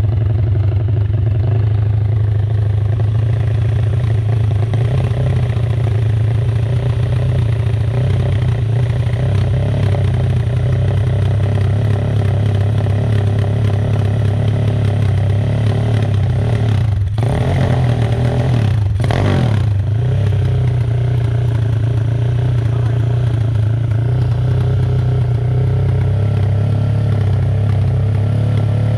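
Kawasaki KLX single-cylinder four-stroke dirt bike running on an aftermarket Herex exhaust, idling with a loud, steady, low beat described as helicopter-like. There is a short change in the note about two-thirds of the way through, likely a throttle blip.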